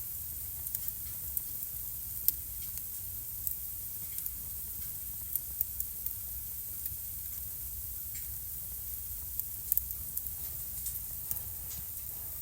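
Wood fire burning in a home fireplace: a steady low rumble and hiss with frequent sharp pops and crackles at irregular intervals.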